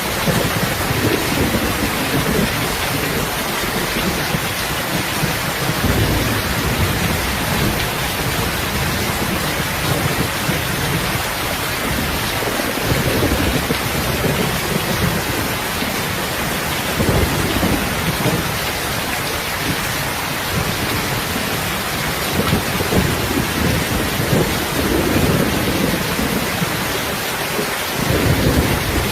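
Steady, heavy rain hiss, with irregular low rumbling swells underneath every few seconds.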